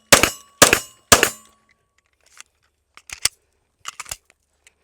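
Smith & Wesson Spec Series 9mm pistol firing three shots in quick succession, about half a second apart, in the first second and a half. A few quieter sharp clicks and clacks follow.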